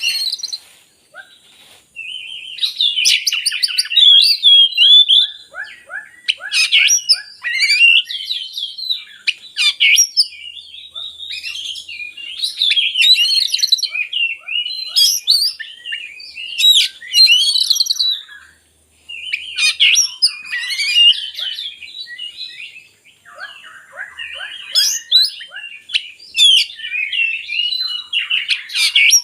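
Oriental magpie-robin singing long, varied phrases of loud whistles and fast trills, broken by a few short pauses.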